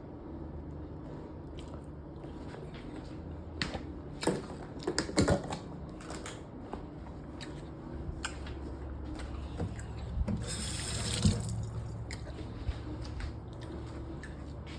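Kitchen work at the stove while cooking broccoli: several sharp clicks and knocks of cookware about four to six seconds in, then a short hiss about ten seconds in, over a steady low hum.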